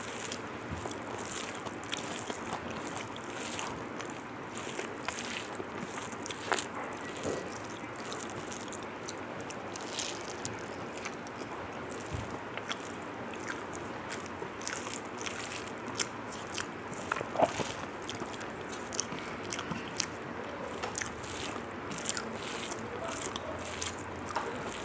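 Close-up eating sounds: irregular wet mouth clicks, smacks and chewing, with occasional louder crunchy bites, over a steady faint hiss.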